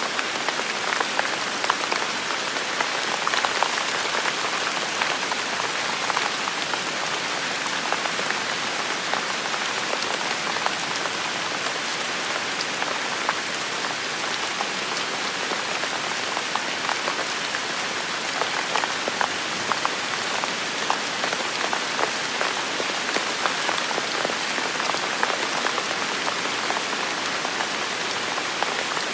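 Heavy rain falling steadily, a dense even hiss with many small drop ticks throughout.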